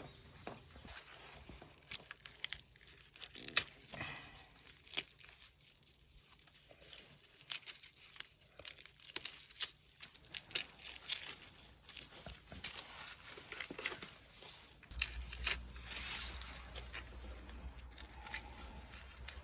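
Irregular sharp snaps, tearing and crinkling from something being torn and handled by hand, with a low steady hum starting about three quarters of the way in.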